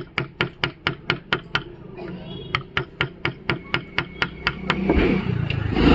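A carving chisel being struck in quick, even taps, about four a second, cutting into wood, with a short pause partway through. Near the end a louder rumbling noise builds up under the taps.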